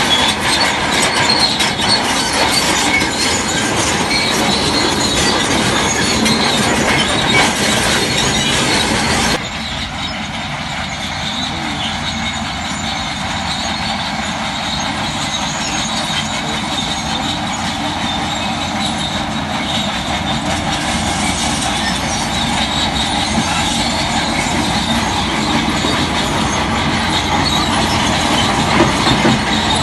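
Crawler bulldozer working, its steel tracks squealing and clanking over the engine. The sound changes abruptly and drops slightly about nine seconds in.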